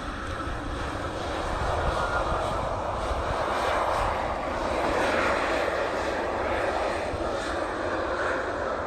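Fixed-wing aircraft engine noise, a broad rushing sound that swells over the first few seconds and then eases off slightly, over a low rumble.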